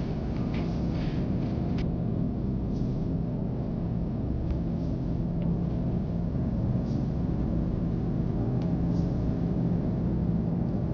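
Steady airliner cabin noise: the low rumble of the engines and airflow with a steady hum underneath, and a few faint clicks.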